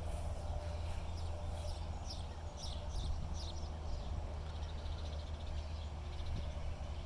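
Small birds chirping in quick runs of short, falling notes, thickest in the first few seconds, over a steady low rumble.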